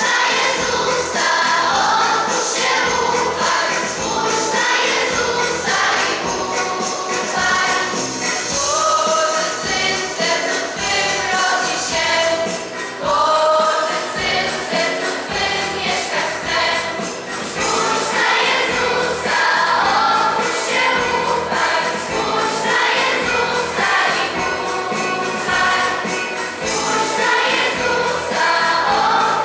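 Choir singing a Polish Christmas carol (kolęda) to a beat-driven accompaniment with jingling percussion.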